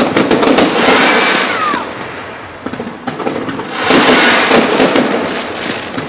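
Aerial fireworks going off: a quick run of sharp bangs and crackles at the start, then a second volley of bangs and crackling about four seconds in.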